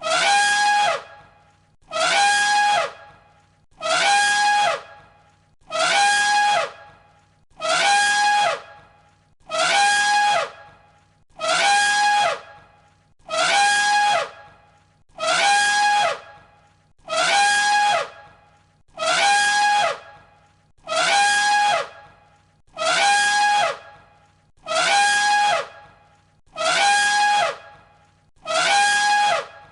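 Elephant trumpeting: the same short trumpet call repeated identically about once every two seconds, each call a blast held on one pitch that falls away at its end.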